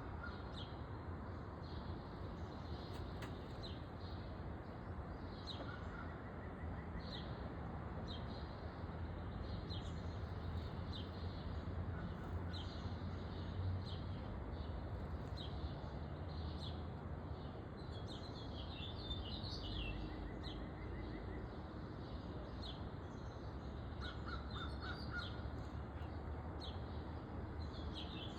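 Backyard birds calling: short, high chirps repeat about once a second, with bursts of twittering about two-thirds of the way through and again near the end, over a steady low rumble.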